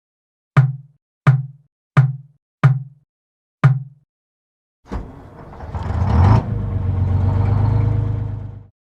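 Cartoon sound effects: five deep, booming thumps, each a bit under a second apart, then a noisy low rumble that swells for about four seconds and cuts off suddenly.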